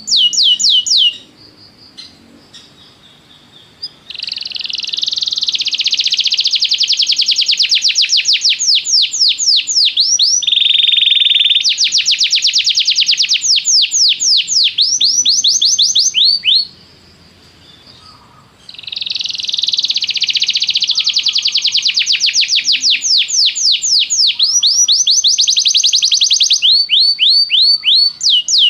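Domestic canary singing: long phrases of rapid, repeated sweeping trill notes, with a brief steady whistled note in the middle of the first phrase. The song breaks off twice for two to three seconds, about a second in and again past the middle.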